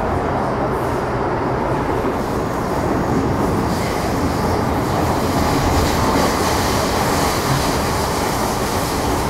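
An MTR Metro Cammell M-Train (CT-Stock) EMU running at speed: steady wheel-on-rail and running noise. A brighter, hissing wheel noise comes in about four seconds in.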